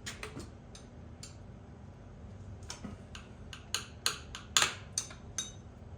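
Irregular sharp metal clicks and clinks of hand work on a small-block Chevy 350 as the distributor is worked loose and pulled out, with the loudest knocks clustered about four to five seconds in.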